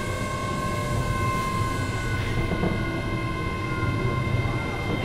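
Keio 7000 series electric train running, heard from inside a passenger car: a low rumble of wheels on rail under a steady high whine of several tones from the traction equipment, drifting slightly lower in pitch.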